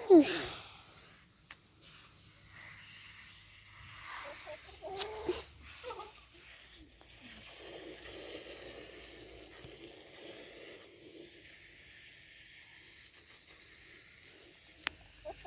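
Water poured over hair, a soft steady rush through the second half, with a short voice-like cry at the very start and a few brief vocal sounds about five seconds in.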